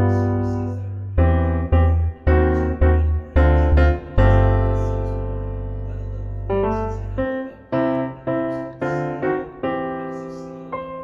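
Background piano music: a series of struck notes and chords, each dying away, with a long held low chord about four seconds in.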